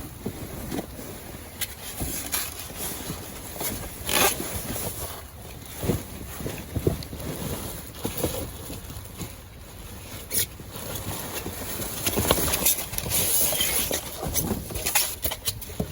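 Rummaging through a dumpster: irregular knocks, clunks and rustling as bags and items are shifted around, over a steady rush of wind on the microphone.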